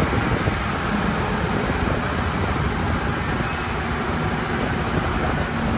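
Diesel engine of heavy earthmoving equipment running steadily, a low hum under a broad rumble of machine noise.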